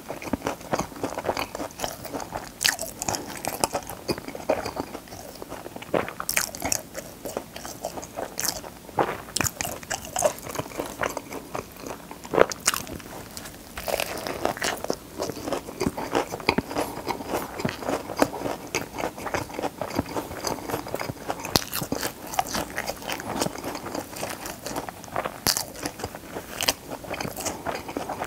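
Close-miked chewing of a crispy fried chicken burger: the breaded patty crackles and crunches between the teeth, mixed with wet chewing of the bun and filling, with one louder crunching bite about halfway through.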